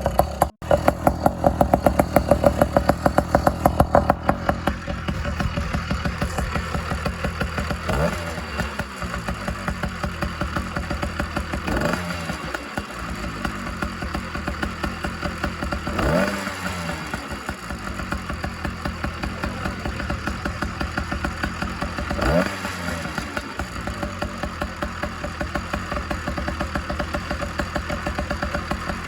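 Single-cylinder two-stroke motorized bicycle engine running, exhausting through a new muffler. It is louder for the first few seconds, and its note dips and comes back up about every four seconds.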